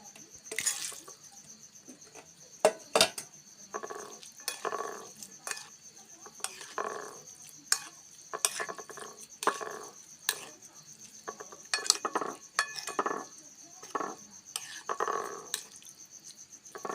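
Cutlery clinking and scraping on a dish as a noodle meal is eaten, in irregular sharp clicks with short muffled sounds between them. A steady high-pitched chirping of crickets goes on throughout.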